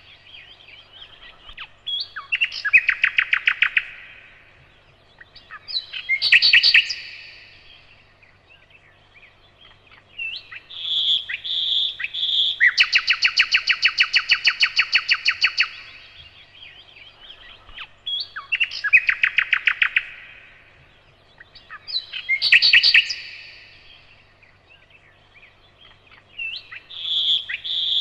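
Nightingale singing in separate phrases a second or two long with short pauses between. Most phrases are fast runs of repeated notes; one phrase near the middle opens with three clear whistled notes and leads into the longest, fastest run.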